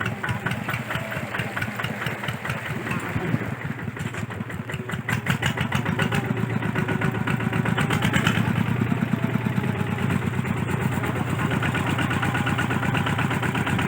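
Kubota RT140 single-cylinder diesel engine running with a rapid, even chug, growing louder about five seconds in.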